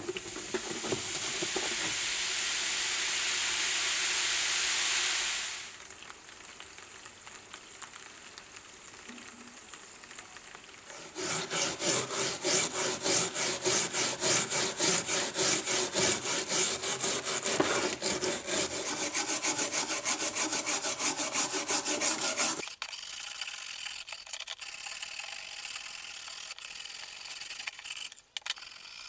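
Water running from a tap for a few seconds, then rapid back-and-forth hand rubbing strokes on the steel bayonet, about three or four a second, lasting some ten seconds, part of cleaning the rust off it.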